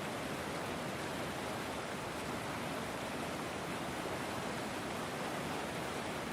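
River water flowing, a steady even rush with no distinct splashes or changes.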